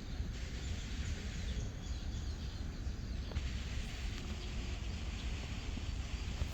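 Outdoor park ambience: a steady low rumble with faint bird and insect sounds.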